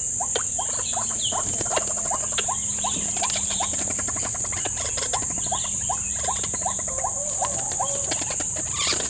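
Short rising call notes repeated about three times a second, in the manner of a white-breasted waterhen's calling, over a loud steady high-pitched insect drone.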